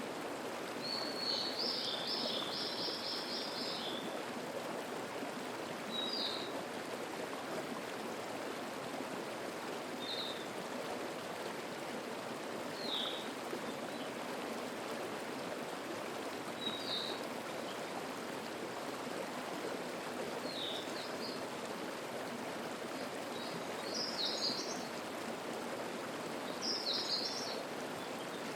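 Mountain stream babbling steadily, with a songbird singing high above it. A rapid trilled phrase comes about a second in, then short chirps every few seconds, and fuller phrases near the end.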